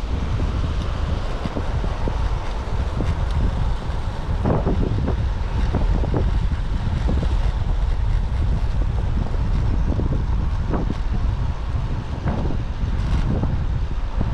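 Strong typhoon wind buffeting the microphone: a steady low rumble with frequent gusty bursts.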